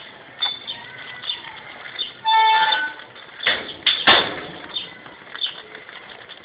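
Birds chirping throughout in short, repeated calls. About two seconds in comes a steady horn honk lasting about half a second, then two loud rushing bursts about half a second apart.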